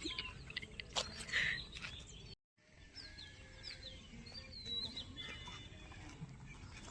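Several small birds chirping and calling, with short whistled notes that slide downward, over quiet outdoor background noise. The sound cuts out completely for a moment about two and a half seconds in.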